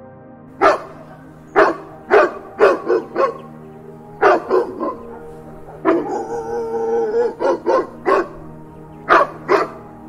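A dog barking: groups of sharp, loud barks, broken about six seconds in by one drawn-out, wavering call lasting over a second, over soft background music.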